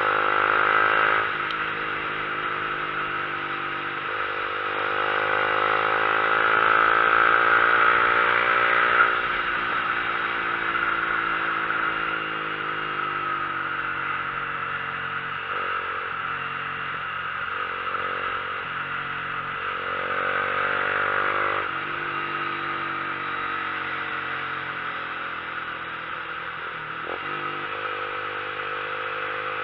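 Vehicle engine pulling uphill, its pitch rising and falling with the throttle. It breaks off and resumes a few times, near the start, around four seconds in, about halfway and about two-thirds through, like gear changes. A steady rush of wind noise runs over it.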